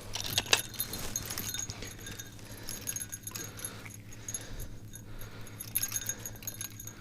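Light clicks and small metallic clinks of ice fishing tackle as a hooked fish is reeled up through the hole, over a faint low steady hum.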